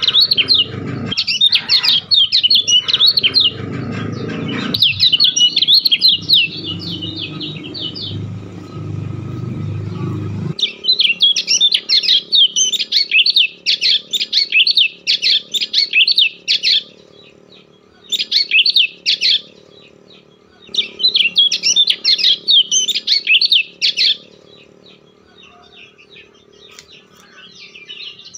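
A bird chirping in rapid phrases a few seconds long with short pauses between them, over a low rumbling noise that stops abruptly about ten seconds in.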